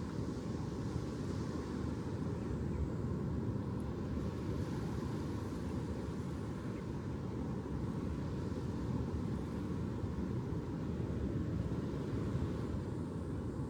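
A steady low rumbling noise with no distinct events, such as distant surf, wind or far-off traffic would make.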